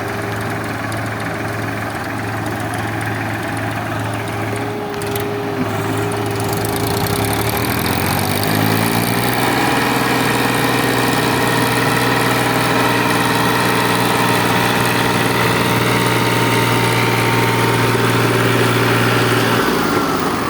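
Diesel tractor engine running, revved up about eight seconds in and held at higher, louder revs, then dropping back just before the end.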